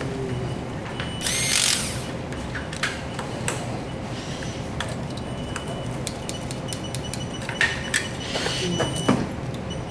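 Small mechanical clicks and knocks of tools and parts being handled over a steady machine hum, with a brief whir of a small power tool about a second and a half in.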